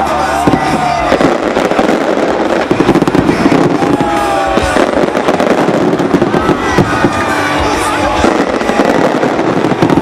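Fireworks going off in rapid succession, with dense bangs and crackling, over music playing through a stadium sound system.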